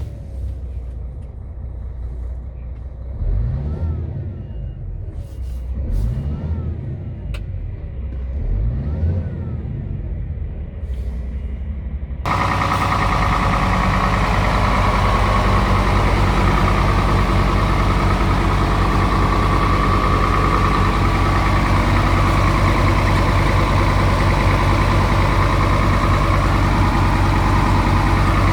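Scania R tractor unit's diesel engine revved in three short blips, each rising and falling in pitch. About twelve seconds in, the sound jumps to a louder, steady run that holds to the end.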